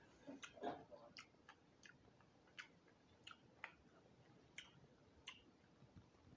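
Faint, sharp crunching clicks of a mouth chewing crispy roasted quail, about ten of them at irregular intervals.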